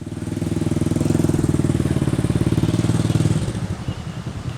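A motor vehicle's engine running close by, growing louder over the first second, holding, then fading away after about three seconds as it passes.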